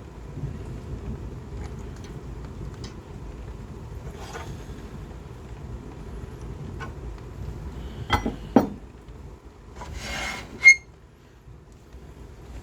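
Steady low hum of a wood lathe motor running, with scattered small clicks of tools being handled. About eight seconds in come two loud knocks, and near ten seconds a short scrape that ends in a sharp click.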